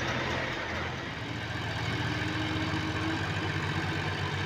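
Diesel tractor engine running steadily, with an even low firing rhythm.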